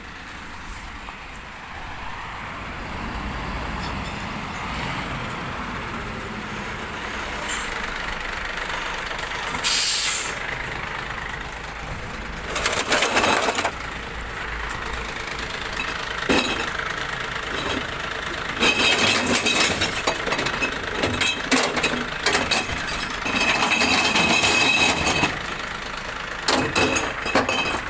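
Glass recycling truck working: its engine runs throughout, with a short air hiss about ten seconds in. Louder stretches of noise come and go later.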